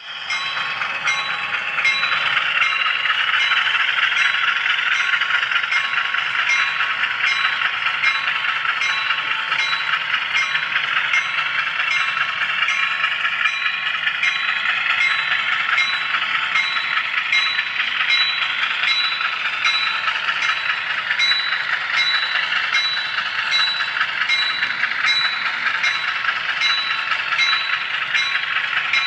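An HO scale camera car rolling along model railroad track, its wheels and motor making a steady rattling whir with a thin steady whine and evenly spaced light clicks. It starts abruptly.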